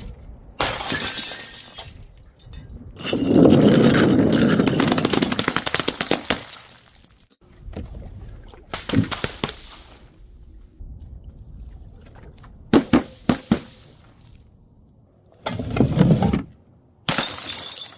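Glass bottles breaking and shattering in a series of separate crashes, one lasting several seconds, with three quick sharp cracks about two-thirds of the way through.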